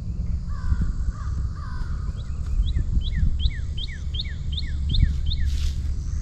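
A crow cawing a few times, then another bird giving a quick run of about nine falling notes, around three a second, over a steady low rumble.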